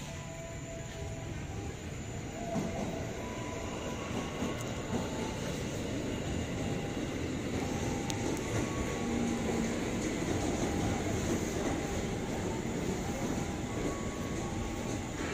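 Rail vehicle running at a station: a steady rumble of wheels on track that builds a couple of seconds in and is loudest in the middle.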